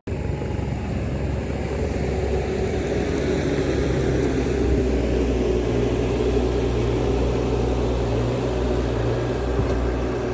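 Diesel engine of a piece of compact earthmoving equipment running steadily at a constant speed.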